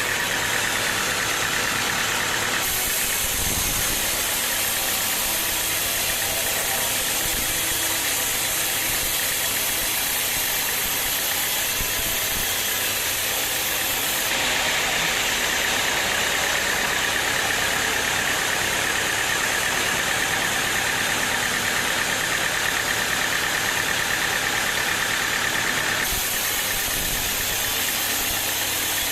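Sawmill machinery running steadily with a constant engine-like noise; the sound changes character a few seconds in, about halfway, and near the end.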